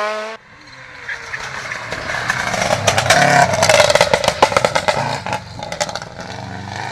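Rally car approaching at speed and passing close, the engine note swelling to a peak and then fading, with a rapid crackle of sharp clicks at its loudest.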